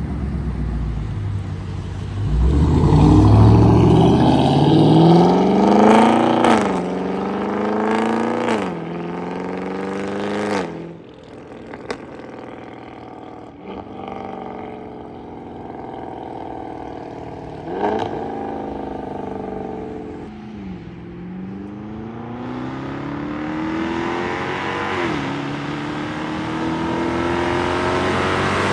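V8 with a catless, straight-piped exhaust accelerating hard through the gears. The exhaust note climbs and falls back at three quick upshifts a few seconds in. It then runs quieter, with another shift about two-thirds of the way through, and pulls up again near the end.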